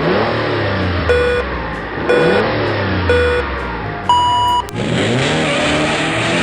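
Race-start countdown sound effect: three short beeps a second apart, then a higher, longer beep, over a car engine revving. After the final beep the engine revs up with a rushing hiss as the car launches.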